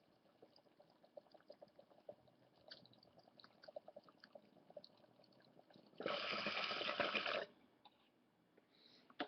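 Water bubbling in a glass bong as smoke is drawn through it: faint scattered bubbling pops, then about six seconds in a loud stretch of steady bubbling lasting about a second and a half.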